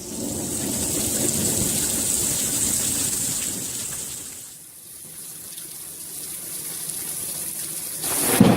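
Heavy rain with thunder rumbling during a severe thunderstorm. The rumble dies away about halfway through, builds again, and a sudden loud clap of thunder breaks near the end.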